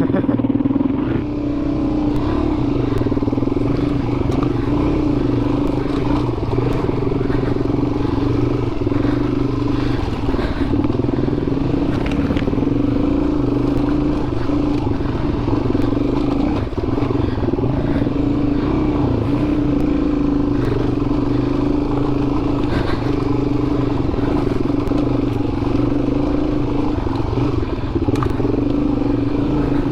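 Dual-sport motorcycle engine running at fairly steady revs as the bike is ridden along a dirt trail, with scattered brief knocks and rattles as it goes over rough ground.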